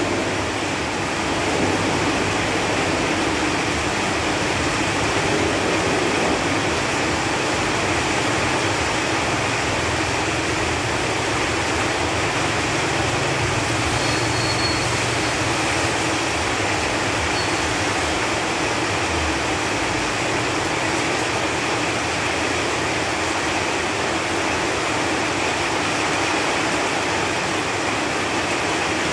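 Steady rain falling on leaves and foliage, an even, unbroken hiss.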